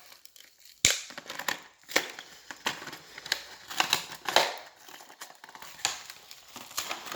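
Toy packaging being torn open: cardboard and plastic crinkling and crackling in irregular handling noises, with a sharp snap just under a second in.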